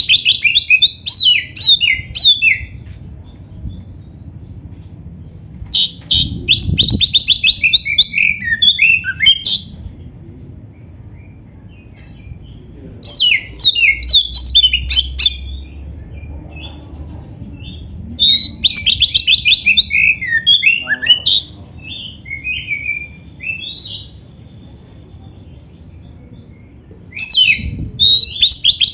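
Oriental magpie-robin (kacer) singing loud, rapid bouts of varied high-pitched trills and whistled phrases, each a few seconds long, with pauses of a few seconds between them.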